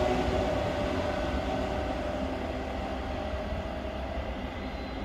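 Trenitalia Frecciarossa high-speed train moving away after passing at speed, its rumble fading steadily as it recedes.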